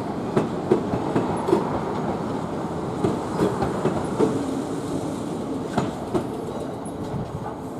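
Southern Class 455 electric train running on the approach tracks, its wheels clicking irregularly over rail joints and points, with a few brief squeals.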